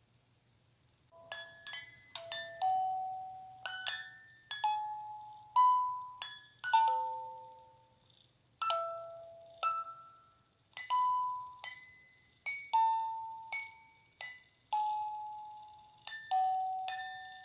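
Slow lullaby melody of single bell-like chiming notes, each struck and left to ring and fade. It starts about a second in.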